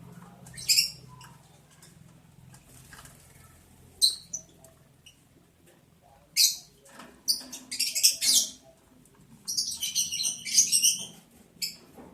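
Lovebirds giving short, high, squeaky chirps in bursts: one near the start, a pair about four seconds in, then longer runs of rapid chatter from about six to eight and a half seconds and again from about nine and a half to eleven seconds.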